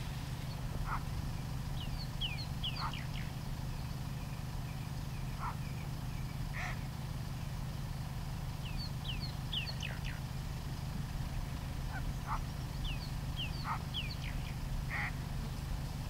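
Wild birds calling: three clusters of quick, high, falling chirps, with scattered short single calls in between, over a steady low hum.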